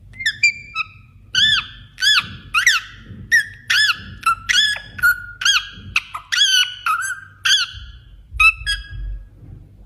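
Parrot calling in a rapid series of short, high-pitched arched squawks, about two a second, stopping near the end.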